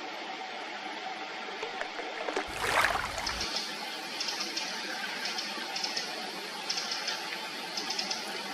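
Steady rush of flowing river water. About three seconds in comes one short, loud noise, and after it a run of quick, irregular high ticks.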